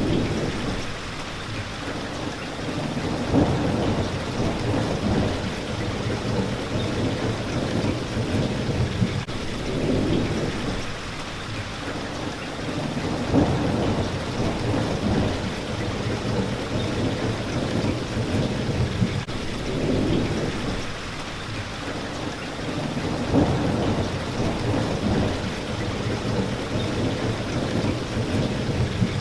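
Steady rain hitting a window, with low rumbles of thunder that swell and fade several times.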